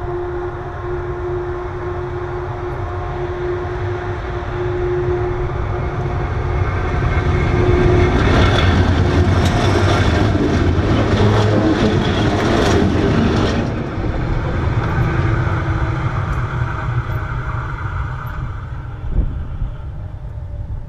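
Transnet freight train passing directly over the track, its wagons' wheels rumbling and clattering on the rails. It is loudest about eight to thirteen seconds in with dense clicking, drops off suddenly after that, and fades as the train draws away.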